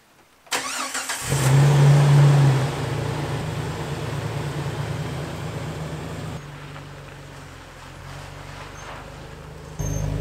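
Jeep Wrangler TJ engine cranked by the starter for under a second, catching and revving briefly, then settling to a steady idle as the Jeep moves off. Near the end the engine sound suddenly gets louder.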